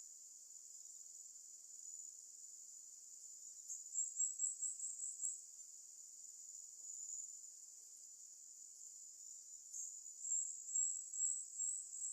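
Insects droning steadily in a high, thin band, with two runs of louder, quick pulses, about four seconds in and again near the end.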